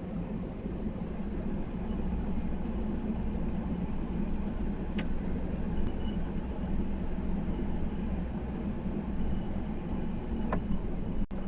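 Steady low drone of the Ford ambulance-conversion truck running, heard from inside the cab, with a couple of faint clicks.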